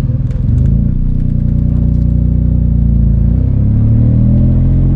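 Nissan 350Z's 3.5-litre V6 engine under throttle, getting louder about half a second in, then rising in pitch over the last two seconds as the car accelerates.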